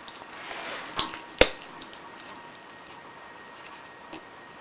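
A brief rustle of handling, then two sharp knocks about half a second apart, followed by faint room noise.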